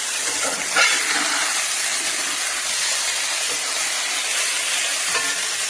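Burger patty frying in a hot HexClad hybrid non-stick pan, a steady sizzle, with a brief tap about a second in.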